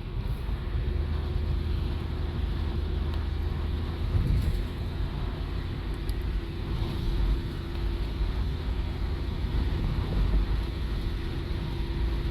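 A car being driven, heard from inside the cabin: steady low engine and road rumble with a faint constant hum.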